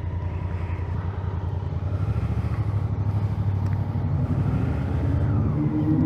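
Honda Africa Twin's parallel-twin engine running, getting louder about two seconds in, with its pitch rising over the last couple of seconds as the revs climb.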